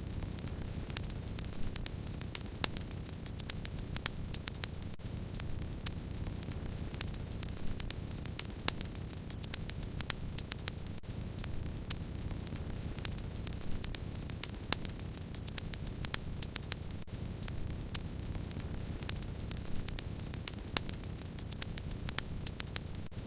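Wood fire crackling: a steady low rush of burning with frequent sharp crackles and pops, several a second.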